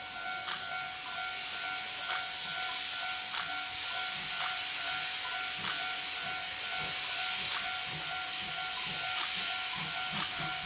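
Steam locomotive C12 66 hissing steam steadily, with faint regular clicks about once a second.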